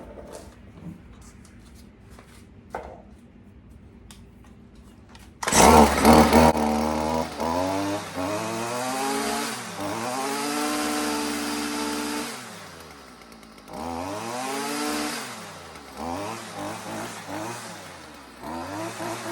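Stihl FS 55 R string trimmer's two-stroke engine, fitted with a new aftermarket carburetor, catching about five seconds in after a few handling clicks, then revved up and down several times with the throttle. It runs and revs cleanly, which the owner takes as the sign that the new carburetor fixed it.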